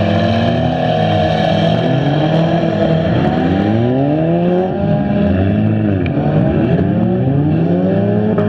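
Several front-wheel-drive stock cars' engines revving up and down at once, their pitches rising, falling and crossing one another as the cars race and jostle on the track.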